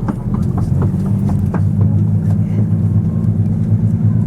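Diesel engine drone of a KiHa 85 series railcar under way, a steady low hum, with scattered light clicks and rattles in the first couple of seconds.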